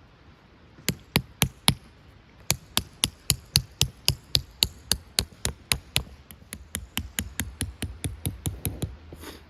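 Repeated hammer blows: four strikes, then a steady run of about three to four a second that turns lighter and quicker near the end.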